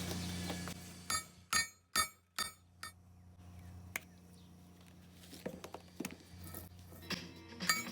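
Five sharp metallic strikes in quick succession, each with a short ring, like a hammer on the steel housing of a lawnmower's electric clutch. A steady low hum runs under the first few seconds.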